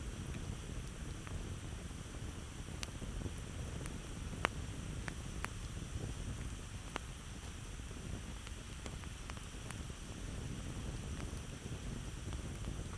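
Campfire burning with a steady low rumble and a few scattered sharp crackles and pops from the wood, the loudest pop about four and a half seconds in.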